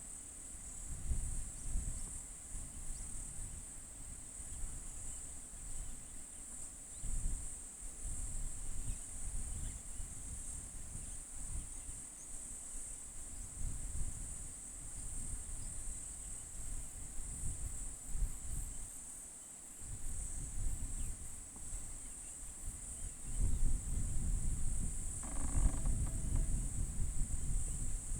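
Steady, high-pitched chorus of insects such as crickets or cicadas, with gusts of wind rumbling on the microphone that grow stronger near the end. About 25 s in, a short pitched call sounds briefly.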